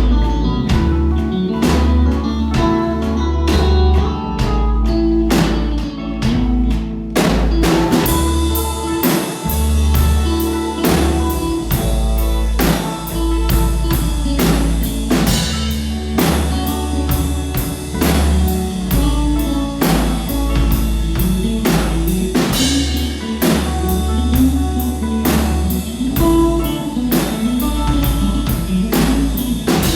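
A rock band playing a song on drum kit and guitar over held low bass notes. The drums grow fuller about seven seconds in, with steady cymbal strokes joining.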